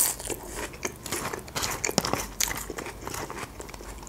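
Close-miked chewing of crisp Caesar salad lettuce: crunching with many short sharp clicks, loudest at the start and about two seconds in.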